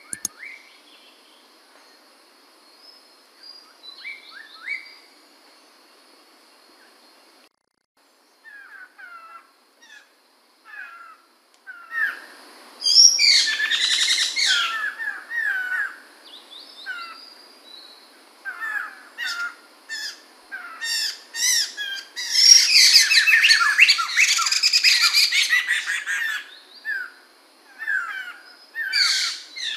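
Poksay mantel laughingthrush calling: a quiet start with a few soft notes, then from about the middle loud bursts of rapid, harsh chattering. Short repeated whistled notes run between the bursts.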